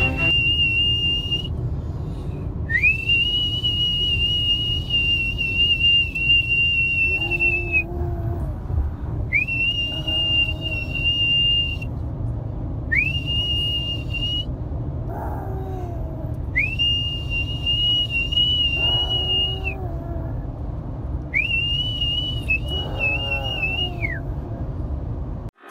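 A person whistling six long, high notes. Each slides up into a steady pitch and is held for a few seconds. A dog answers with fainter, lower howls that come during or just after most of the whistles. A steady low background noise runs underneath.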